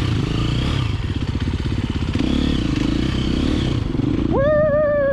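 A 2024 KTM 350XC-F's single-cylinder four-stroke engine running hard on a dirt-bike practice ride, throttle rising and falling. About four seconds in, a held, wavering high note comes in over the engine.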